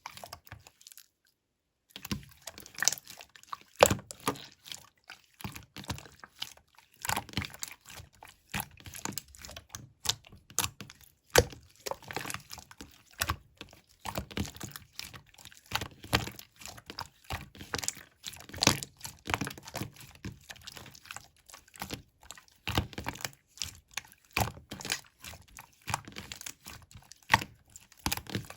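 Slime being squeezed, poked and folded by hand, giving a continuous irregular run of sticky clicks and crackly pops, with a brief silence near the start.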